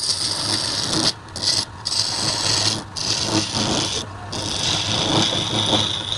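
A tool working wood on a running woodturning lathe: a steady hissing scrape, briefly lifted off the wood four times, over the low hum of the lathe.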